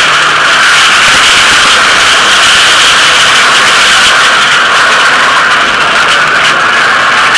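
Rally car engine running hard, heard loud and steady from inside the cabin while the car drives along the stage.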